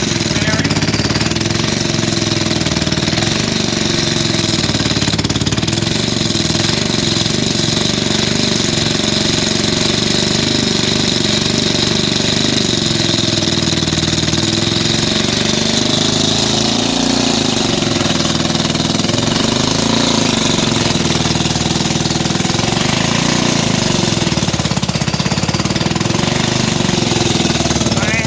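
Modified 206cc Briggs & Stratton Animal single-cylinder engine, running with no flywheel, de-bored with a custom sleeve and at about 15:1 compression. It runs steadily and loudly, its speed drifting up and down slightly.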